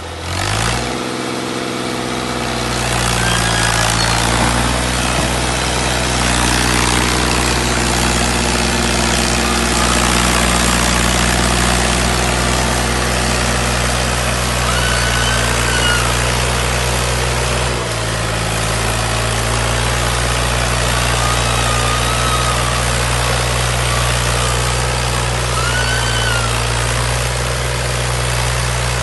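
Combine harvester engine picking up speed in the first couple of seconds, then running steadily under load with a loud mechanical din. It dips briefly about eighteen seconds in.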